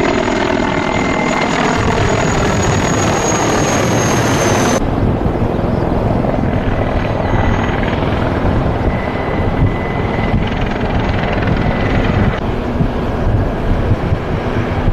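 Military helicopters flying overhead: steady rotor and turbine noise with a high whine, the sound changing abruptly about five seconds in and again near the end.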